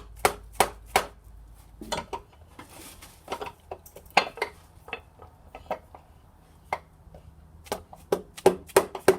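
Repeated sharp knocks as a piston and connecting rod are tapped out of a cylinder bore in a Chevy V8 engine block. The knocks thin out in the middle, then come in a quicker series near the end.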